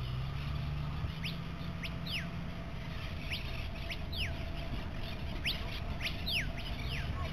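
Birds chirping: a series of short, sharp calls that sweep quickly down in pitch, often in pairs, starting about a second in, over a low steady hum.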